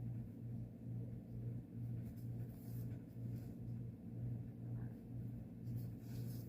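Faint swishes of floss being pulled through cross-stitch fabric, a few times, over a low hum that swells and fades about three times every two seconds.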